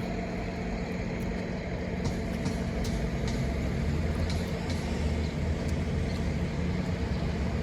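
Steady low mechanical hum and rumble, with a few faint scattered clicks.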